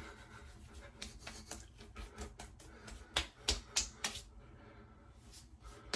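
Light, irregular taps and clicks, a few sharper ones about three to four seconds in, then fainter.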